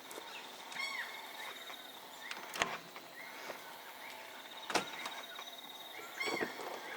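Two sharp knocks about two seconds apart, over bush ambience: a high, fast-pulsing trill and a few short bird calls.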